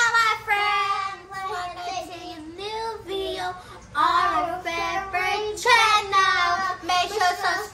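A child singing alone in a high voice, a melody of long held and sliding notes with short breaks between phrases.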